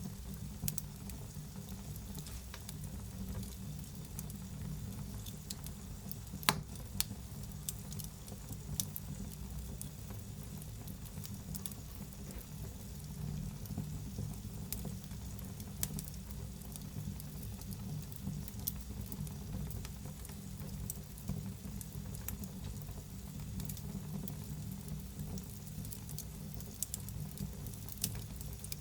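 Wood fire burning in a fireplace: a steady low rumble of flame with continual irregular crackles and pops, one sharper pop about a third of the way in and a few more near the end.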